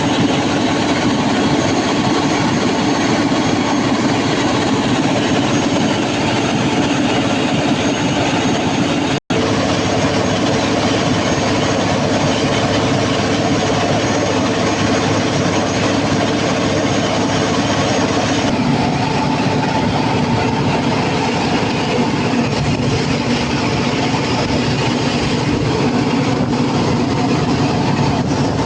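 Cummins KTA50 16-cylinder turbocharged diesel generator engine running steadily and loud, with a constant drone. The sound drops out for an instant about nine seconds in.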